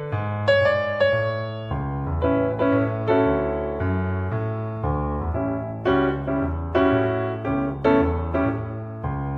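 Solo piano playing a Christmas song: melody notes struck and left to ring over a repeating low bass line.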